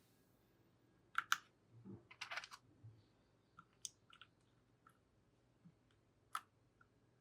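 Plastic keycaps being pressed onto mechanical keyboard switches and handled: a sharp pair of clacks about a second in, a cluster of clicks soon after, then scattered lighter ticks.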